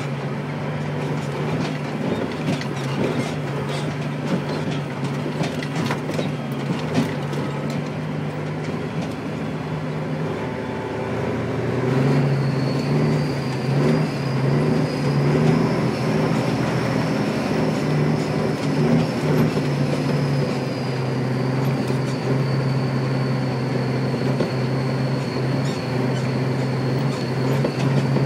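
Dump truck engine running under way, with rattling. About ten seconds in, the engine note breaks off briefly, then comes back louder along with a high whine that rises a little and then falls.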